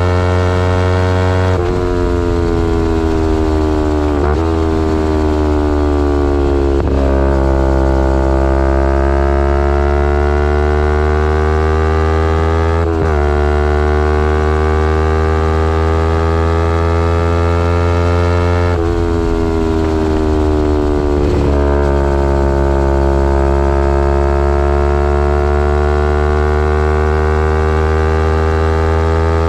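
Kawasaki Ninja 250R's parallel-twin engine through a full Graves race exhaust, ridden under way. Its pitch drops sharply at each gear change, about six times, and the revs climb slowly between shifts.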